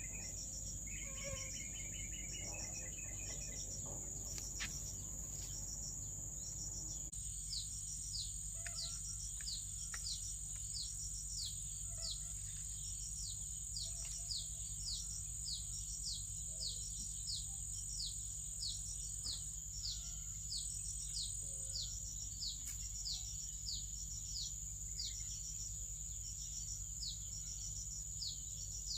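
Steady high-pitched insect drone with a high, downward-sliding chirp repeating about every 0.7 seconds, over a low steady hum; a bird twitters in short trills during the first few seconds.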